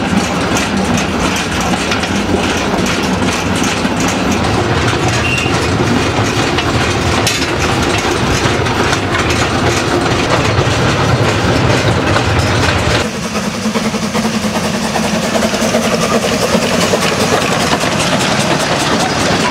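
Narrow-gauge heritage train in motion, steel wheels clattering and rattling over the rail joints, heard from the open platform between carriages. About two-thirds of the way through, the sound changes abruptly to the steam train rolling past at the trackside.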